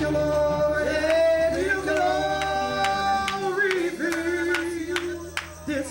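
Gospel praise team singing a slow worship song, voices holding and sliding between notes over steady low accompaniment. A series of sharp percussive hits sounds from about two seconds in.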